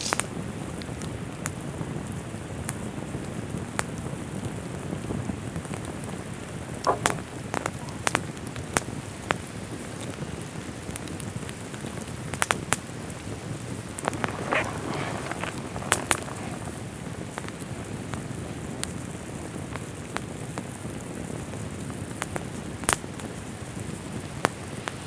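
Steady rain falling, with many sharp scattered clicks of heavy drops or pops through it and a few brief rustles.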